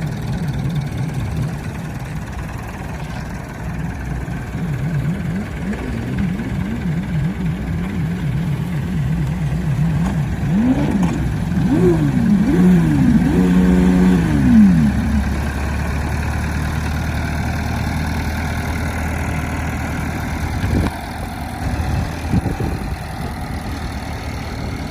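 Farm tractor's engine running under load as it hauls a boat up the beach, revving up and down repeatedly, with the biggest rises and falls after about ten seconds, then settling into a steady lower drone.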